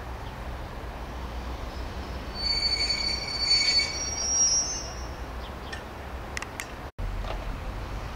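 Regional electric multiple unit moving along the station track with a low rumble. About two and a half seconds in, a high metal-on-metal squeal with several pitches sets in and lasts a couple of seconds, followed by a few sharp clicks.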